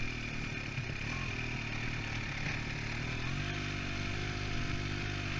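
Kawasaki H2 SX's supercharged inline-four idling steadily once warmed up, its idle note shifting slightly about three seconds in.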